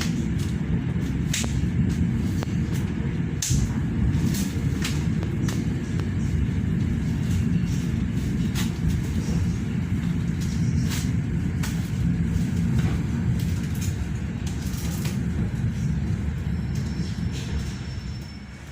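Passenger train running along the track: a steady low rumble with frequent sharp clicks and rattles, easing off slightly near the end.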